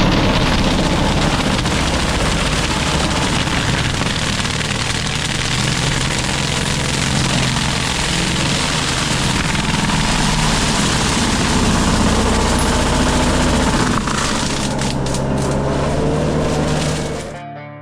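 JCB 3TS-8T Teleskid skid steer working with a FECON forestry mulcher head: a steady, loud drone of engine and spinning mulcher drum grinding brush. A run of sharper clattering comes about fourteen seconds in, and the sound cuts off shortly before the end.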